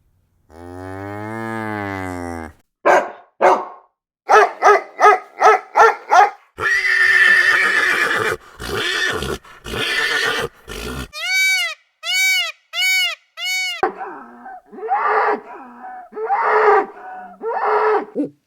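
A string of different animal calls, one after another: a long low call, a quick series of about six calls, a longer rough call, four short high arched calls, then several more calls.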